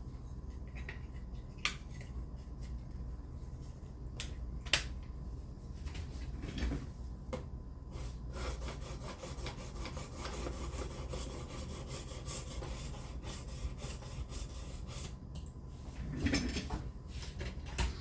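A few light clicks and knocks, then several seconds of continuous scraping as a knife edge is worked back and forth across an 800-grit sharpening plate; another knock near the end.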